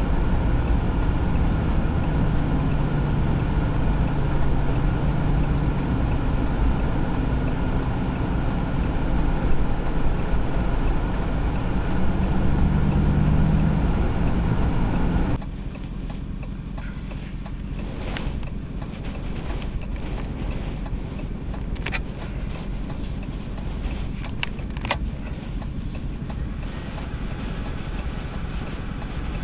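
Strong blizzard wind blowing over a running vehicle, with a low engine hum and a regular light ticking about three times a second. About halfway through the sound drops abruptly to quieter wind noise broken by scattered sharp clicks.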